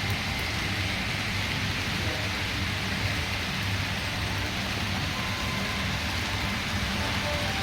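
Steady rumbling hiss of model trains running on the diorama layout's track, mixed with the room's background noise.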